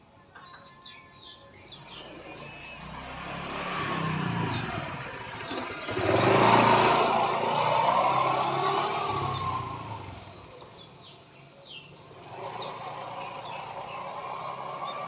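A motor vehicle passing on the road, building over a few seconds to its loudest about six seconds in and fading by about ten seconds. Another vehicle swells in near the end. Short chirps from the caged songbird come in between.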